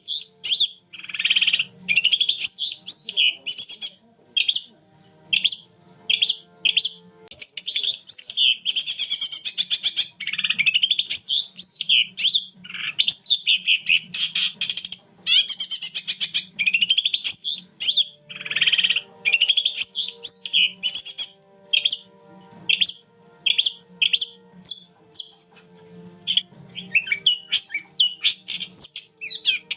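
Long-tailed shrike singing: rapid, varied bursts of high chirps and trills, phrase after phrase with short pauses between.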